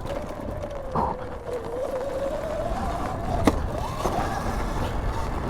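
Electric motor of a 2019 Sur-Ron electric dirt bike whining under throttle, its pitch sagging and then rising as the bike speeds up, over a low rumble of riding noise, with a couple of sharp knocks.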